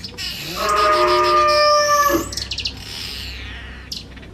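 A loud, long call lasting about a second and a half at one steady pitch, followed by short, quick, high bird chirps.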